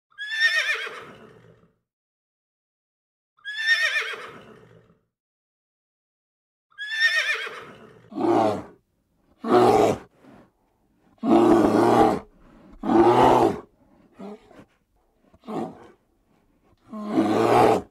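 Horse whinnying three times, each call starting high and falling away, a few seconds apart. From about eight seconds in, it gives way to a run of shorter, lower, harsher animal calls about a second apart.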